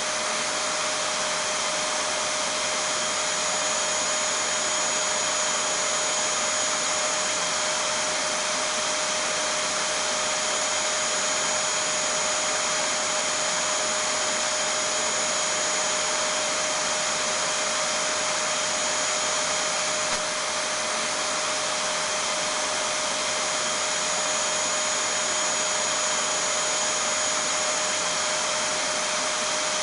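Vacuum cleaner running steadily: an even rush of air with a constant whine, unchanging throughout.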